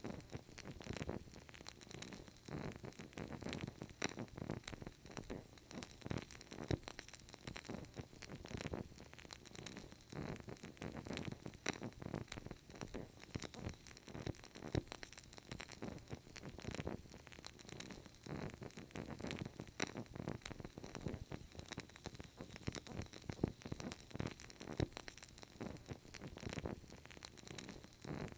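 Burning candle crackling faintly: a steady run of small, irregular crackles and pops over a low hiss.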